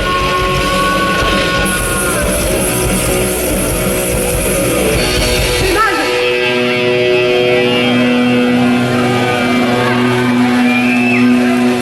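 Live rock band playing, amplified guitars to the fore. About halfway through, the heavy low end cuts out and held notes ring on.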